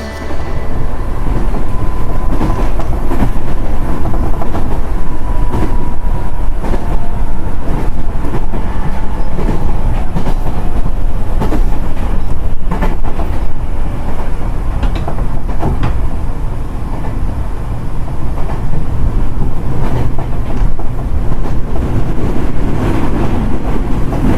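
Passenger train running along the track: a steady loud rumble with repeated clicks of the wheels on the rails.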